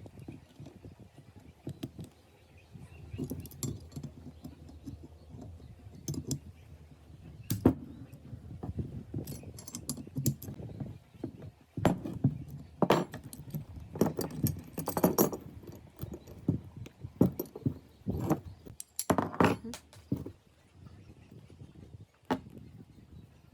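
Metal parts clinking and knocking against each other as they are handled, in irregular bursts, with one sharp knock about eight seconds in and a busier run of clinks in the second half.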